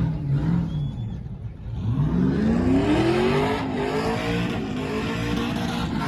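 Truck engine blipping a little at low revs, then about two seconds in accelerating hard, its pitch climbing and held high at high revs.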